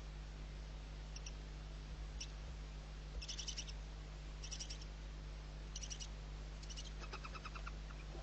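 Barn owl chick calling in short bursts of rapid, high-pitched ticking, about six bursts, the last one lower-pitched. A steady low hum runs underneath.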